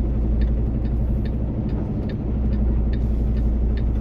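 Semi truck's diesel engine running at low speed, heard from inside the cab as a steady low hum, with a light, regular ticking about two to three times a second.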